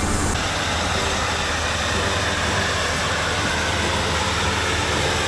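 Steady vehicle engine noise with a constant low hum and a broad rushing sound, cutting off abruptly at the end.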